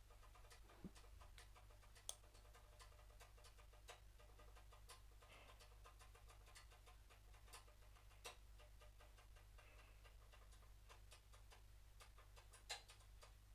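Near silence over a low steady hum, with faint scattered computer mouse clicks, a few of them louder.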